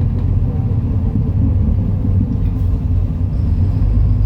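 MAN Lion's City NL293 city bus's diesel engine running with a steady low rumble.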